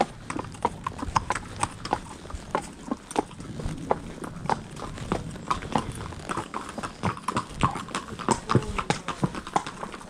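Hooves of two ridden horses clip-clopping on a hard road surface, an uneven run of sharp strikes at several a second.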